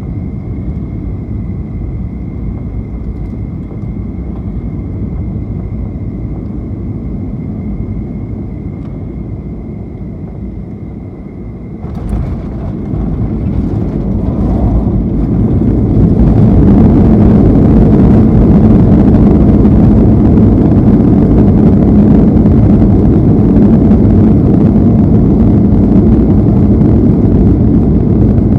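Boeing 737-800 cabin noise on final approach: a steady low drone with a thin high whine. About twelve seconds in there is a sudden jolt as the wheels touch down. The noise then swells over a few seconds into a loud, steady rush from the CFM56-7B engines in reverse thrust as the jet decelerates on the runway.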